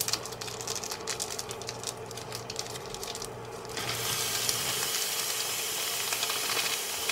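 Plant-based ground (Beyond Beef) frying in hot oil in a stainless-steel pan as it is squeezed in from its package. It crackles for the first few seconds, then turns to a louder, steady sizzle from about four seconds in as more of it lands in the pan.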